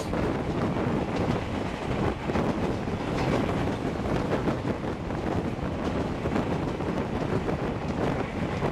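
Passenger train running at speed, heard from an open coach doorway: a steady rush of wheels on the rails mixed with wind buffeting the microphone.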